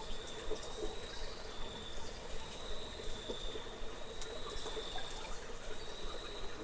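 Cave ambience: a steady high-pitched insect trill that breaks off briefly every second or two, over a constant hiss, with a few scattered drips or clicks.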